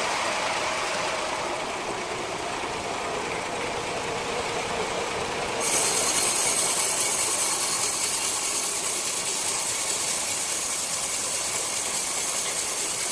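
Large sawmill circular saw cutting through a rosewood block, a steady noisy whir. About six seconds in it grows louder and hissier.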